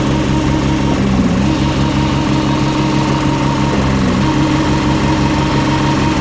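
Engine of a concrete mixer pump machine running steadily, its pitch dipping briefly about every three seconds.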